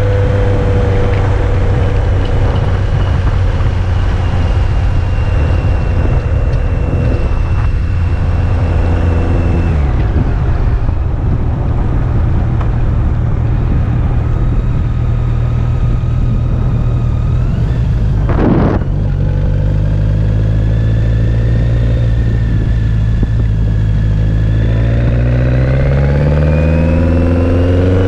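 BMW K-series motorcycle engine running under way. The engine note drops about a third of the way through as the rider eases off. A brief rush of noise comes about two-thirds in, then the revs climb steadily near the end as the bike accelerates.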